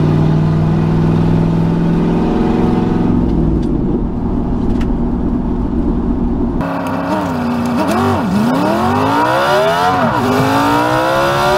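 A road vehicle's engine running while driving. About two-thirds of the way through the sound changes abruptly, and the engine revs up through the gears, its pitch rising and dropping back at each shift.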